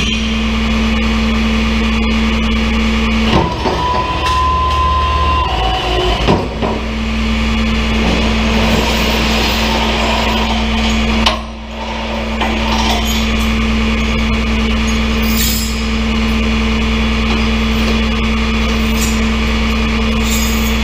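Truck engine running steadily with a constant drone, with a few knocks and a short whistling tone about three and a half seconds in.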